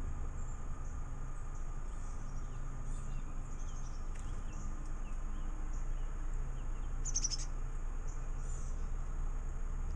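Small birds chirping, with short high calls scattered throughout and a louder quick run of notes about seven seconds in, over a steady low background rumble.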